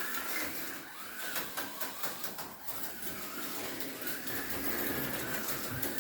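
Small electric motor of an HO-scale slot car whining on the track, its pitch rising and falling as the car speeds up and slows through the course, with rattling and clicking as it runs over the track.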